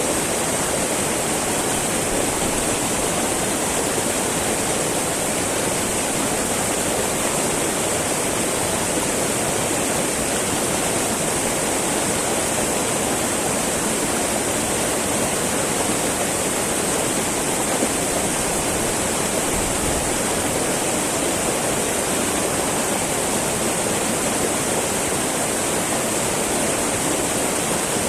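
Small mountain river babbling over rocks, a steady rush of flowing water.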